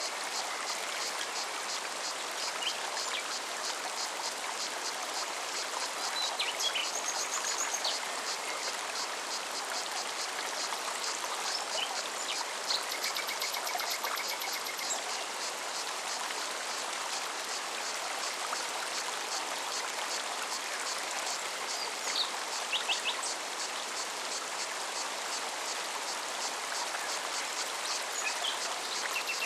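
Forest stream running steadily, with a cicada's rapid, regular high-pitched pulsing going on throughout and a few short bird chirps here and there.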